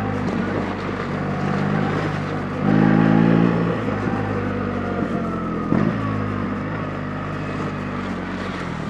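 BMW R 1300 GS Adventure's boxer-twin engine running at low revs off-road, with a short, louder blip of throttle about three seconds in and a single knock a little before six seconds. The engine note then eases off slightly toward the end.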